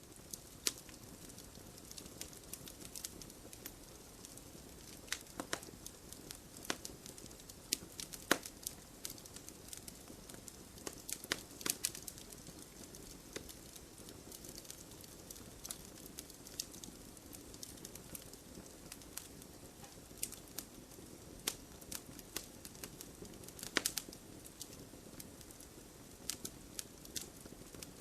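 Wood campfire burning: a steady low hiss with irregular sharp crackles and pops, a few louder snaps standing out.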